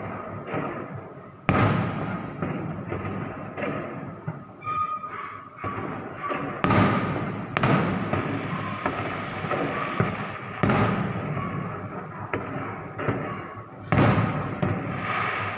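Aerial fireworks shells bursting: five loud booms a few seconds apart, each trailing off in a rumbling echo, with smaller pops and crackle in between.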